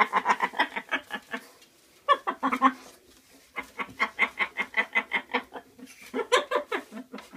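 Pet bird chattering in runs of rapid, repeated clucking notes, about ten a second, broken by short pauses.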